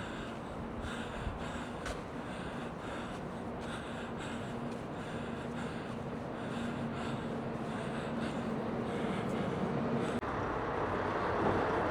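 Walking on a city street: a steady traffic hum with a held low drone, and close breathing at the microphone. About ten seconds in the sound breaks off and comes back louder, with heavier traffic noise.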